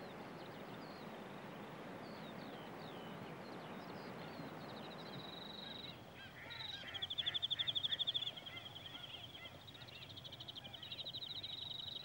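Birds calling over a steady rushing background: a few faint short high chirps, then, from about five seconds in, rapid high trills, the loudest lasting about a second and a half.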